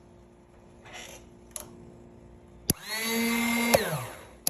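Coolster 125cc ATV's electric starter: a click, then a steady high whir like a blender for about a second with no cranking rhythm, winding down with falling pitch, then another click near the end as it is tried again. The ATV won't start, even with a new battery, solenoid and starter fitted.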